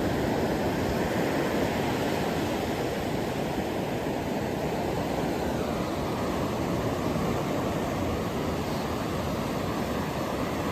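Ocean surf: a continuous rushing wash of waves with no melody.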